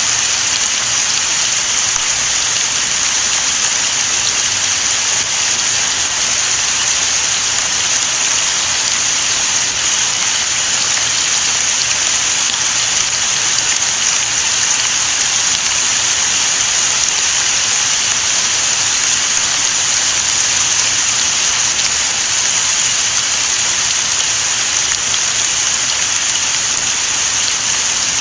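Steady rain, an even, unbroken hiss strongest in the high treble.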